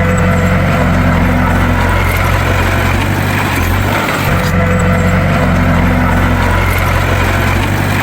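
Bulldozer's diesel engine running steadily with a deep drone, briefly dipping just after four seconds in.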